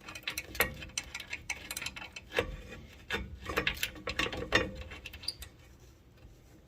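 Irregular metallic clicks and clinks of hand tools and brake parts being worked while fitting a new brake caliper bracket. The clicks are busiest over the first few seconds, then die down near the end.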